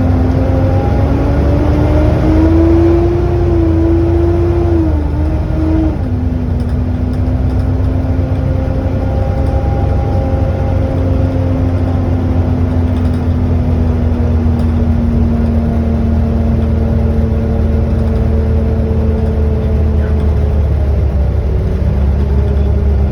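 Volvo B7TL double-decker bus heard on board, its engine running under a heavy low rumble with the loud whine that earns it the name 'hoover'. The whine rises in pitch for the first few seconds, drops sharply about six seconds in, then slowly sinks lower.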